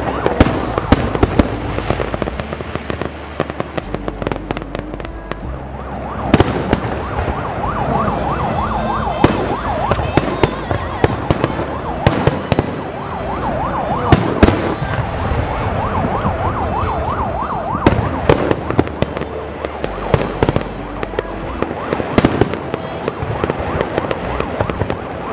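Fireworks display: shells bursting in rapid succession with many sharp bangs over a steady rumble. From about six seconds in, many overlapping wavering whistles sound over the bangs for about ten seconds.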